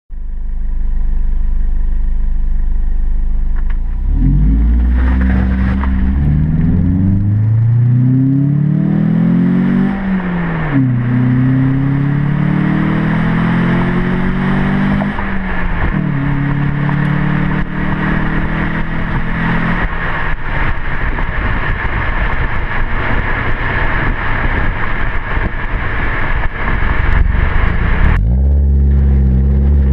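2012 Ford Focus 2.0 Ti-VCT inline-four with a Steeda cold air intake on the stock exhaust, idling, then accelerating hard through the gears with upshifts about 10 and 15 seconds in, then running steadily under a rushing noise. Near the end the sound cuts suddenly to the engine idling again.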